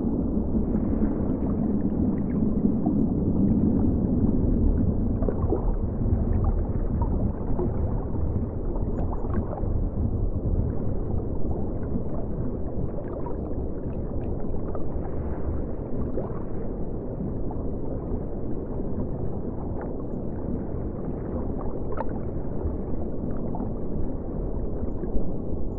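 River water flowing: a steady, muffled low rush with faint gurgling and occasional small ticks.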